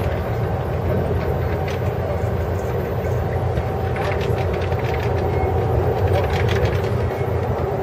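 Steady rumble of an Amtrak sleeping car on the move, heard from inside its corridor, with scattered light clicks and rattles.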